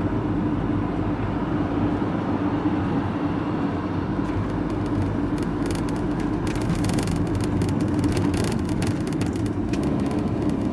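Engine and road noise inside a moving vehicle's cab: a steady low rumble with an even hum, and a stretch of crackly hiss about halfway through.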